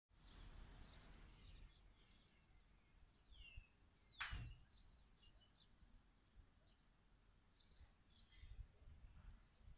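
Faint birdsong: many short, scattered chirps from small birds, with one sharper, louder call about four seconds in, over a faint low rumble.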